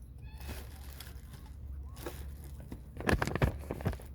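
Crinkling and rustling, as of a bag being handled, with a loud burst of crackling clicks about three seconds in. A few faint bird peeps come about half a second in.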